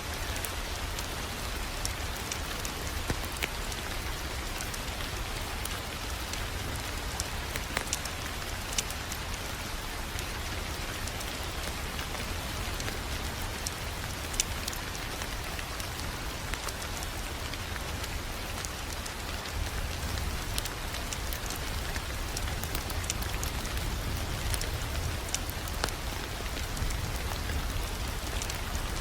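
Wood fire crackling steadily, with scattered sharp pops over a low rumble.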